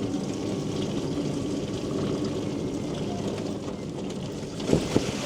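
Electric mobility scooter (Quingo Toura Mk2) running on a wet road: a steady motor hum with tyre and road noise, and a couple of short knocks near the end.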